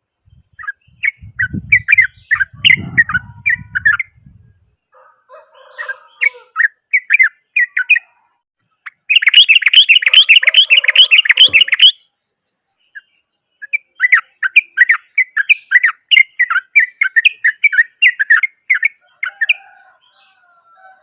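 Yellow-vented bulbul (trucukan) singing loud, rapid strings of harsh notes in four bursts with short pauses between, the densest and loudest burst near the middle.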